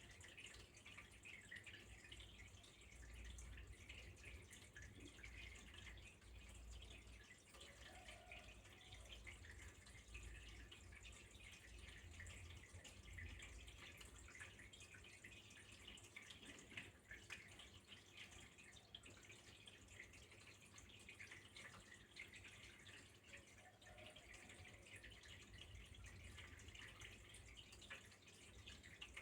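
Faint, steady trickle of flowing water with a dense patter of small drips and splashes.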